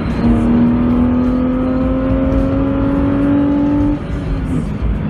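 BMW Z4 3.0i's straight-six engine pulling hard under acceleration inside the cabin, its note rising steadily, then dropping away about four seconds in as the throttle comes off or it shifts, with road and wind noise throughout.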